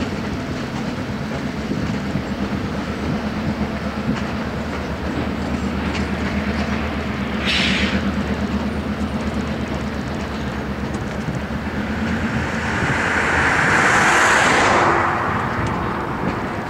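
Passenger cars of a train rolling across a railway bridge with a rhythmic clickety-clack, over the steady low drone of an EMD GP38-2 diesel locomotive. Near the end a road vehicle passes close by with a rush of tyre noise that falls in pitch.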